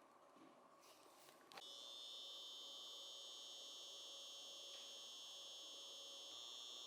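A small electric motor switched on with a click about a second and a half in, then running with a steady high-pitched whine of several tones.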